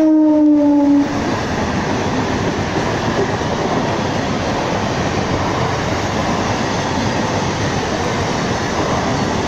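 Eastern Railway electric multiple unit local train sounding its horn, which falls slightly in pitch and cuts off about a second in. Then its coaches run past close by with a steady rumble and rattle of wheels on the track.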